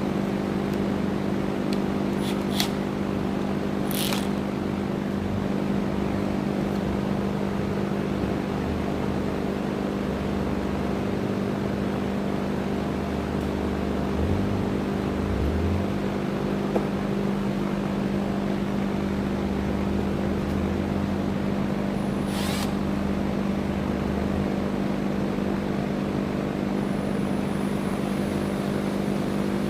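Electric drill motor running steadily at an even pitch while a 3/16-inch bit bores through the steel rear trunnion of an AK-type receiver, with a few sharp clicks.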